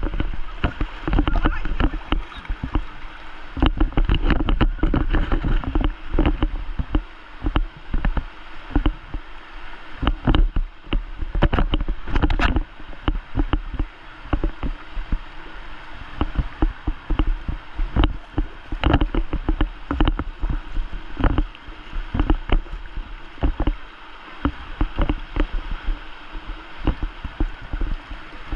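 Kayak being paddled on the water: water splashing and sloshing with the paddle strokes, amid frequent irregular knocks and bumps.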